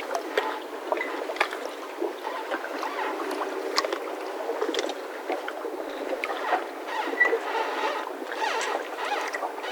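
Mooring ropes of yachts tied up in a marina squeaking and creaking irregularly as the boats shift on the water, with scattered short knocks and one brief high squeak about seven seconds in.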